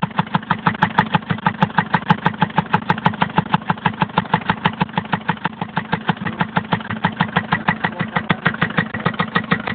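Mercedes-Benz OM601 four-cylinder diesel engine idling with a steady, evenly spaced knock of about seven strokes a second.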